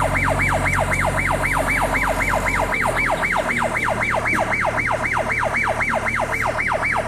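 Electronic siren-type warning horn, a fast falling sweep repeated about four times a second, sounding over the low, steady running of a JCB 3DX backhoe loader's diesel engine.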